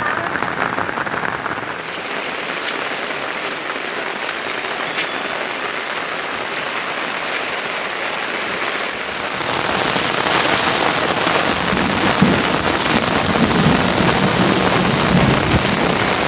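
Steady rain falling and pattering on surfaces, growing louder and heavier about nine seconds in.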